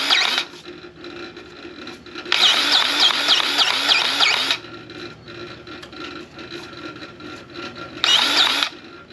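Grease gun pumping grease into a trailer axle hub in three bursts, a motor-like whine that pulses about four times a second. The first burst stops just after the start, the second runs for about two seconds, and a short one comes near the end.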